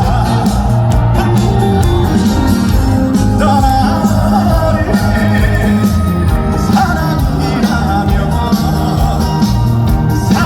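Live trot song performed loudly by a male singer over an amplified band with a strong, steady bass line.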